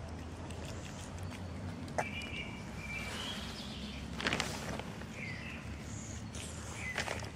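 Small birds chirping in short, scattered calls over a steady low hum, with a few knocks and rustles, the loudest cluster about four seconds in.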